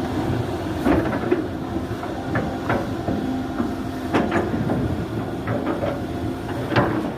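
Volvo EC480 excavator's diesel engine running steadily, with sharp metallic clanks of the bucket and linkage about five times as it works.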